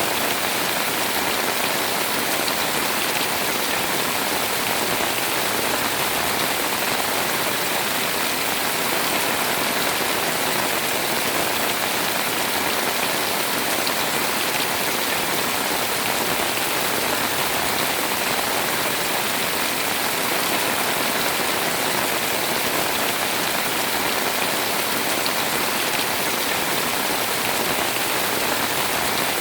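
Heavy rain pouring down steadily, a dense even hiss of drops striking surfaces.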